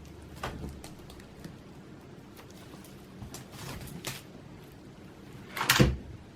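Cats moving about, with light rustles and soft taps, then one loud thump a little before the end.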